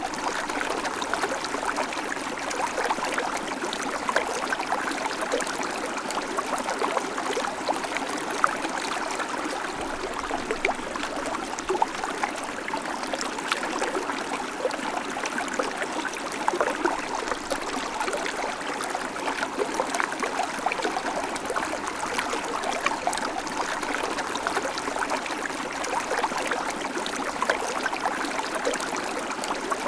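Babbling creek: shallow water running and trickling over stones, a steady gurgling wash with many small splashes.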